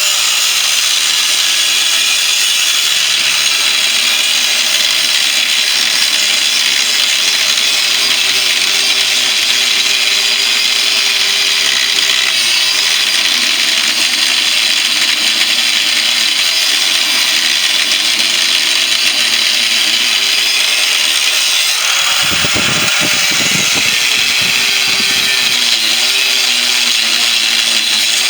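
Power tool cutting through the steel shell of a refrigerator compressor, a steady loud hiss of metal being cut over the motor's whine. The motor's pitch sags and recovers now and then under load, and there is a spell of low rumbling about three quarters of the way through.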